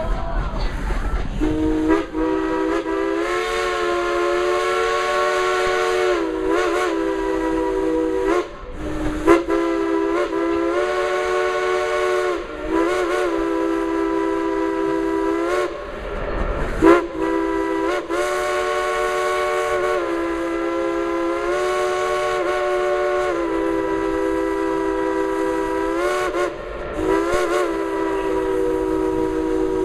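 The Dollywood Express steam locomotive's whistle is blowing a steady multi-note chord in long blasts, broken by several short gaps.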